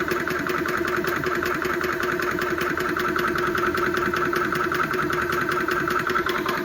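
Yong Heng 4500 psi high-pressure air compressor running steadily with a rapid, even pulsing, pumping air into a bottle under load.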